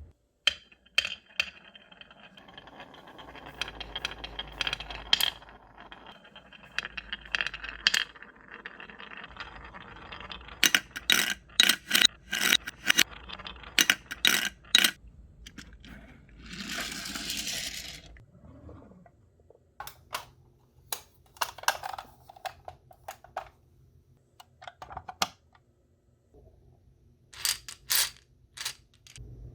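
Marbles rolling along rain-gutter channels and wooden rails, with a rolling rumble broken by many sharp clicks as they knock against the track and each other. About halfway through there is a rushing sound lasting a second or so.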